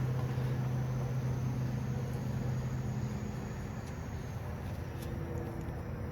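A steady low machine hum under a broad, even noise, with a few faint clicks.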